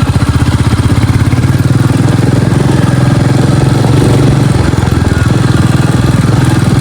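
Royal Enfield Bullet's single-cylinder engine running steadily as the motorcycle is ridden over an off-road stretch, its rapid firing pulses heavy in the low end, with a brief easing of the engine a little before the five-second mark.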